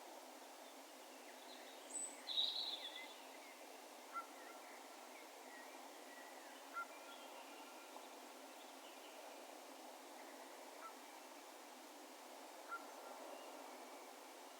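Distant birds calling across an open field over a steady rural background hiss. A brief cluster of higher chirps about two seconds in is the loudest moment, then single short call notes come every two to four seconds, each trailing off in an echo.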